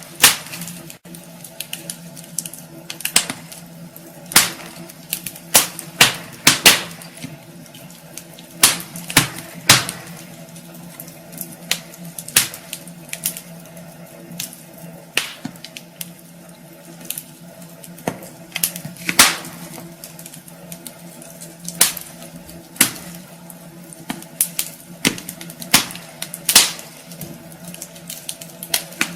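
Wood fire burning in a fireplace, crackling with irregular sharp pops, a few every second or two, some much louder than others.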